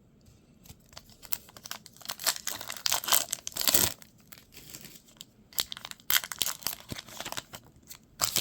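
Plastic baseball card pack wrapper being torn open and crinkled in the hands, in irregular bursts of crackling.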